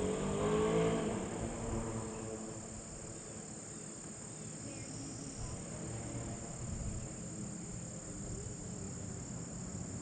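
A motor vehicle's engine hum, loudest in the first two seconds and then fading, over a steady high insect drone and low wind rumble on the microphone.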